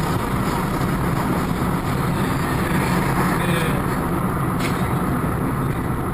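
Steady noise of a moving motor vehicle, engine and road noise heavy in the low end, with a faint click about four and a half seconds in.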